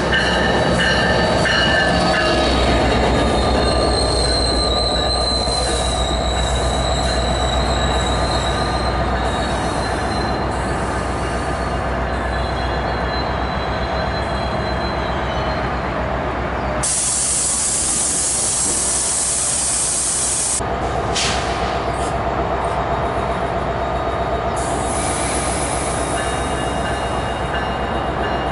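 NJ Transit commuter train pulling in and slowing to a stop, its cars rumbling steadily while the wheels squeal in thin high tones for the first several seconds. Past the middle comes a loud hiss lasting about four seconds, then a second, shorter hiss.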